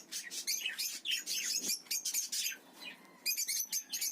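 Small parrots in an aviary of African lovebirds and budgies chirping: many short high chirps overlapping, with a brief lull about three seconds in.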